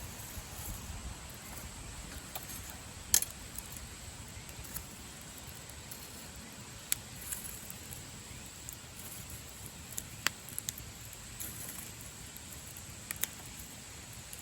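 Wood campfire burning: a low steady hiss with scattered sharp crackles and pops, the loudest about three seconds in.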